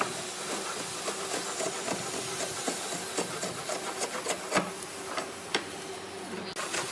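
Hand work on wood: irregular light taps, clicks and scraping over a steady hiss, with one sharper knock about two-thirds of the way through.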